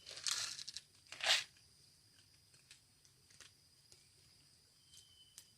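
Two short rustles, the second about a second after the first and louder, then a few faint clicks, over a faint steady high-pitched tone.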